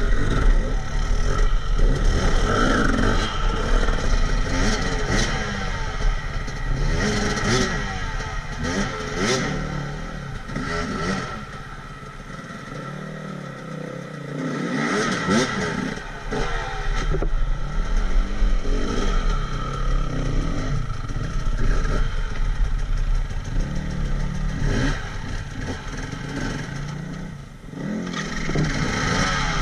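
A vehicle engine revving up and down again and again, with rattling. It eases off for a few seconds about midway.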